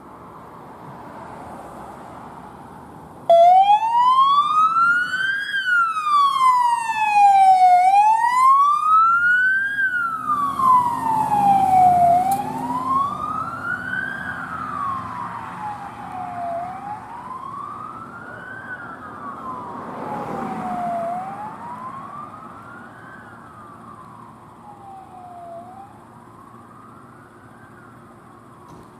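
Emergency vehicle's electronic siren on a slow wail, rising and falling about every four seconds. It comes in suddenly and loud about three seconds in, an engine rumble passes beneath it, then it fades as the vehicle moves away.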